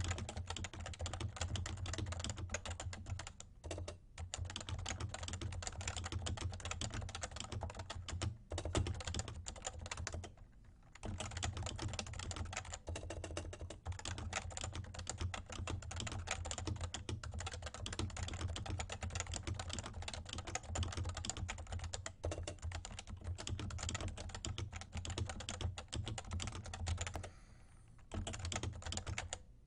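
Realforce R2 TKL keyboard with 30 g Topre electro-capacitive switches being typed on at a steady, fast pace. The keystrokes form a dense stream with a few brief pauses.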